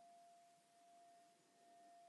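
Tibetan singing bowl ringing on faintly: one steady tone with a faint higher overtone, swelling and fading gently about every second and a half.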